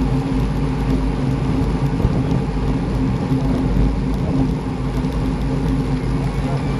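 Steady rushing noise of a road bike moving at racing speed, with wind on the microphone and a constant low hum of tyres on the road.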